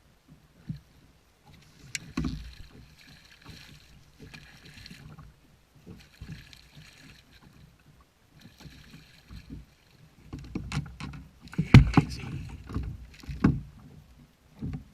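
Splashing and knocking aboard a fishing kayak on the water: several short bursts of splashing, then a run of sharp knocks and bumps against the kayak from about ten seconds in, loudest a little before the end.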